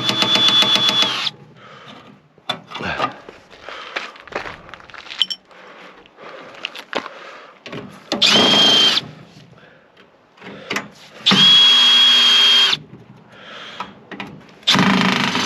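Power drill driving screws out of a microwave oven's casing in four short runs, each a steady motor whine of about a second, with small clicks and rattles of handling between runs.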